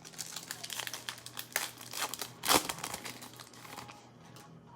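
Plastic wrapper of a trading card pack crinkling and being torn open, with one sharp, loud rip about two and a half seconds in.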